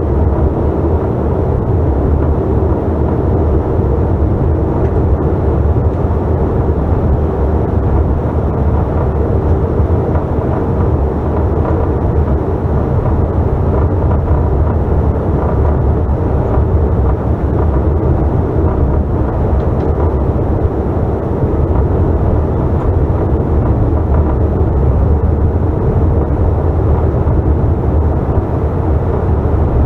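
Steady cabin noise of a Bombardier CRJ900 in flight, from its rear-mounted GE CF34 turbofan engines and the rush of air over the fuselage. A deep, even roar with a faint steady hum in it.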